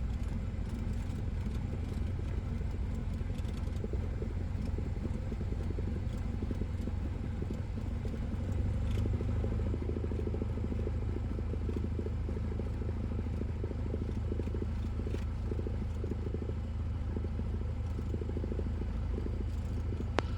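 Cessna 172S's four-cylinder Lycoming engine running at low power in the cockpit during landing rollout and taxi, a steady low hum that gets a little louder about eight seconds in as power is added.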